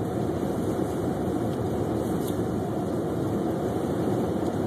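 Steady road and engine noise inside a Chevrolet Suburban's cabin at about 40 mph on a snow-covered highway.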